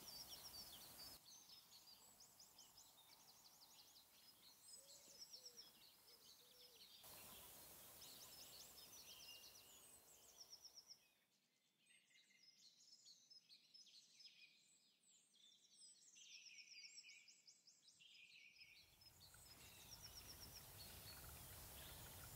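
Faint songbirds chirping and trilling in quick repeated phrases, over a soft background hiss that changes abruptly several times.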